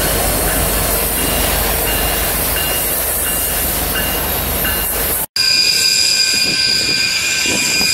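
Freight train rolling past at close range: a BNSF diesel locomotive going by, then loaded coal hopper cars with a steady rumble of wheels on rail. The sound cuts off abruptly a little over five seconds in and switches to a passing train of tank cars, with steady high-pitched wheel squeal over a lighter rumble.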